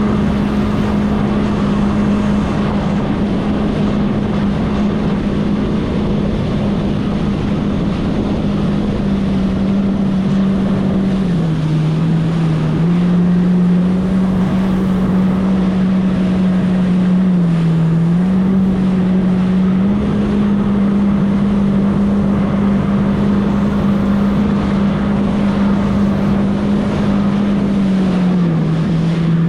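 Jet ski engine running steadily at speed, with wind buffeting the microphone. Its pitch drops briefly three times, the last one near the end.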